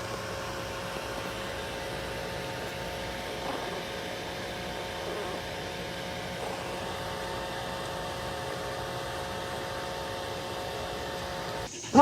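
A steady mechanical hum with a couple of faint constant tones in it. Just before the end, a dog breaks in with loud repeated barks.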